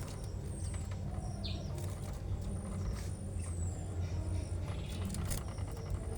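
A steady low rumble, with a few faint chirps from caged birds over it; one short, falling chirp about one and a half seconds in.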